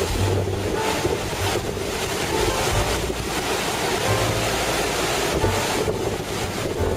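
Heavy typhoon surf crashing and washing on a rocky shore, with strong gusty wind buffeting the microphone in low rumbles that come and go.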